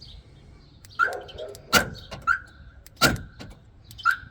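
Newly fitted door-lock actuator motor in a Hyundai Accent driver's door being cycled to test it. Each time it gives a short electric whir followed by a sharp clack as the lock throws. This happens twice, and a third whir starts near the end.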